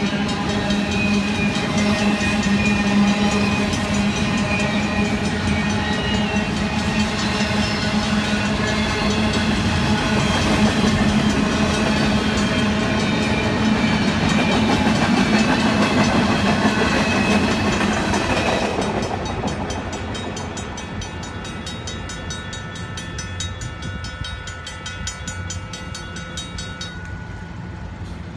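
A train passing a railroad crossing, loud and steady, then dropping away about two-thirds of the way through as it clears.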